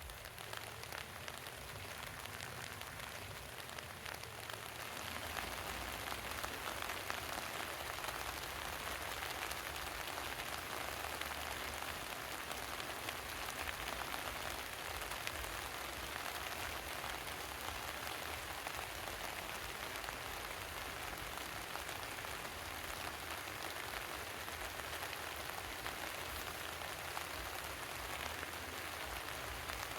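Heavy rain falling steadily, building up over the first five seconds and then holding at an even, dense hiss.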